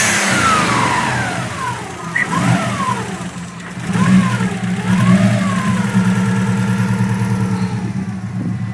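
Freshly rebuilt Subaru STI Version 6 turbocharged flat-four engine running on its first start and being revved with the throttle. The revs fall away at the start, rise again about two seconds in, get two quick blips around four to five seconds in, then settle to a steadier run near the end.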